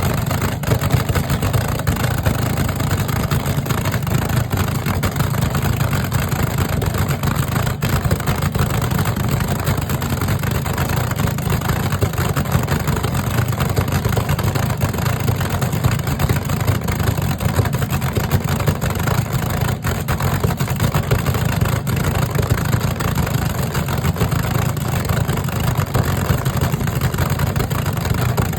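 Steady low engine rumble of vehicles running, holding the same level and pitch throughout without revving up or down.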